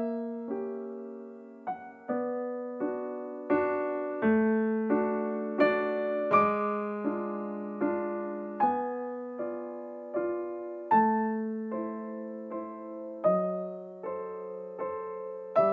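Background piano music: a slow, gentle tune of struck notes, each left to fade, about one every three-quarters of a second.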